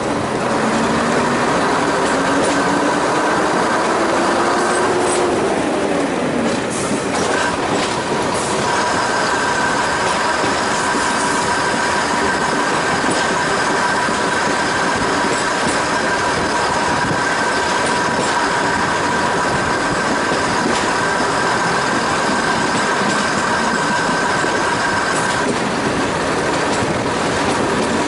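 Heritage diesel multiple unit running along the line, heard from a carriage window: a steady dense rumble of wheels on rail. A lower whine rises and then drops away in the first few seconds. A high steady wheel squeal is strongest from about eight seconds in until shortly before the end.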